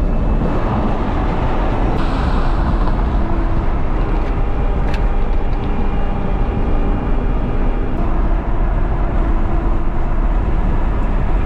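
Steady engine and road rumble of a moving vehicle, with a single sharp click about five seconds in.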